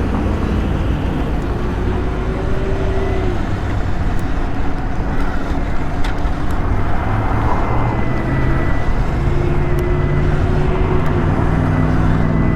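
Sur-Ron electric dirt bike being ridden: a faint thin motor whine that wavers slightly in pitch over a steady rumble of tyre, drivetrain and wind noise on a helmet-mounted microphone.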